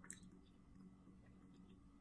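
Near silence: faint closed-mouth chewing over a low steady room hum, with one soft click at the start.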